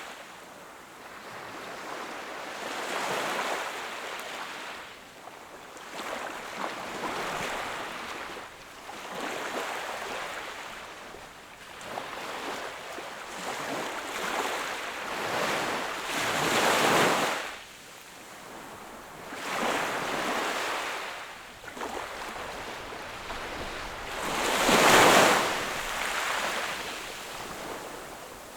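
Sea waves breaking and washing onto the shore, the surf swelling and falling back every few seconds. Two larger waves crash, one a little past halfway and one near the end.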